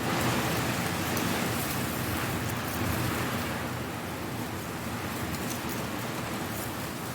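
A strong gust of wind rustling and blowing dry leaves, swelling right at the start and slowly easing off, with scattered light crackles from the leaves.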